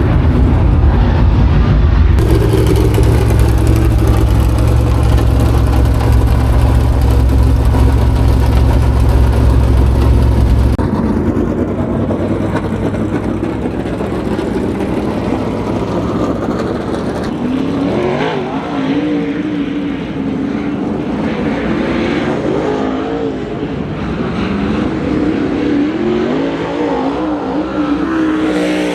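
Dirt-track super late model race car engines. A loud, low engine rumble fills the first ten seconds or so, then the engines drop back and keep rising and falling in pitch as the cars work around the track.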